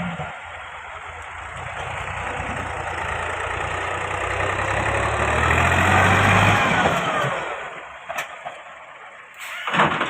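Tractor diesel engine running, growing louder over about six seconds and then fading away, with a sharp knock near the end.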